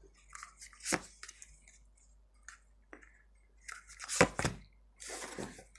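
Tarot cards being handled on a table: a few sharp taps and snaps as cards are drawn and laid down, with a short rustle of cards near the end.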